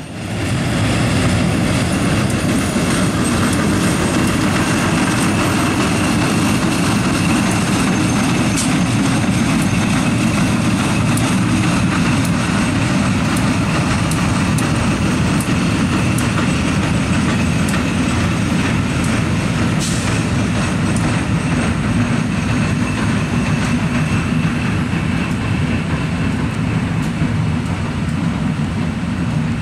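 Steady rumble of a slow train rolling along the track: a string of dead SEPTA AEM-7 electric locomotives being towed by diesel switchers, with a few sharp clicks over the rumble.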